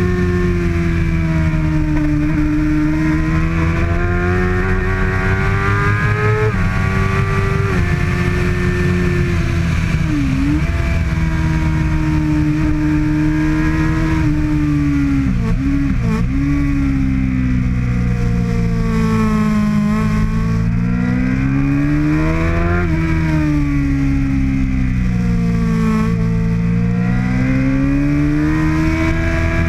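Kawasaki ZX-6R 636 inline-four engine at racing revs, its note climbing and falling again and again. The pitch steps down suddenly as it shifts up, and it drops away sharply a few times when slowing for corners.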